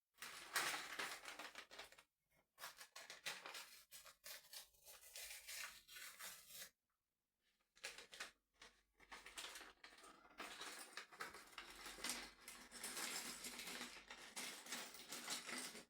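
Plastic LEGO parts bags being torn open and crinkled, in irregular spurts of rustling, with a short pause about seven seconds in.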